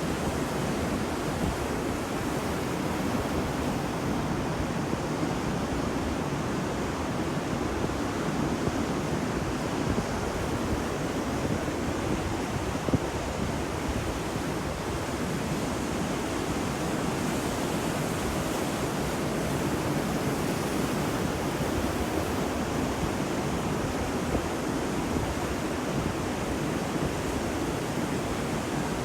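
Ocean surf washing onto a beach, a steady rushing hiss with slight swells and no distinct wave breaks, with some wind on the microphone.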